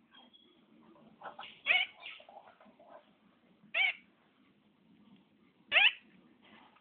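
Puppy crying in short, high-pitched whimpers: three loud cries about two seconds apart, with softer whimpers between.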